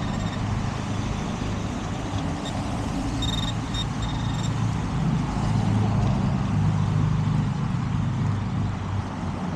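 Steady traffic from a busy road: a continuous low rumble of passing vehicles. A few short high beeps from the metal detector sound a little over three seconds in.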